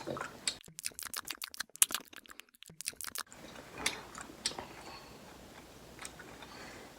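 Faint handling noise: a quick run of small clicks and crackles lasting about two and a half seconds, then a few scattered clicks.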